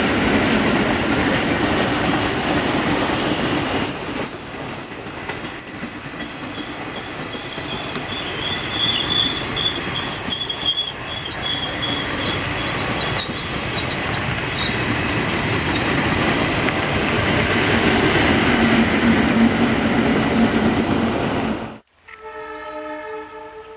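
A train running past on the rails: a loud, continuous rumble of wheels and carriages with high-pitched wheel squeal over it. It cuts off suddenly near the end, and a short, fainter pitched tone follows.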